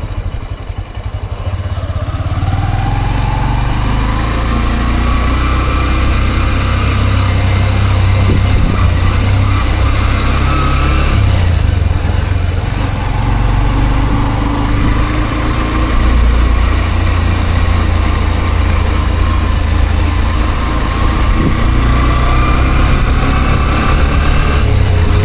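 Honda CB125F motorcycle's single-cylinder four-stroke engine running under way: it rises in pitch over the first few seconds as the bike accelerates, then holds steady, with brief dips about halfway and near the end like gear changes.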